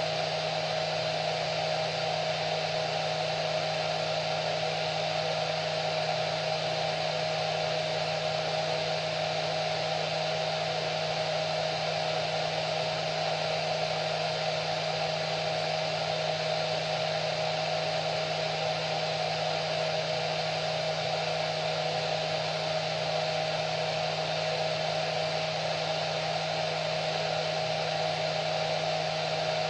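Hair dryer running continuously: a steady rush of air with a constant motor hum and a whine, unchanging throughout.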